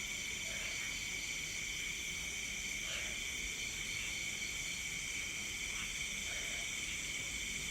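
Night insect chorus of crickets and other insects: several overlapping steady high trills, one of them pulsing rapidly. A few faint short calls sound through it now and then.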